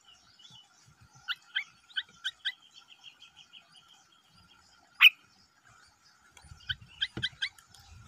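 Bulbul and its begging nestlings calling at the nest: runs of short sharp chirps, a fast trill, and one loud sharp chirp about five seconds in. A soft rustle of nest material comes under the last chirps near the end.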